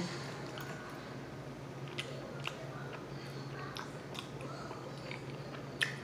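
A person chewing a mouthful of food close to the microphone, with soft mouth sounds and a few sharp clicks, over a steady low hum.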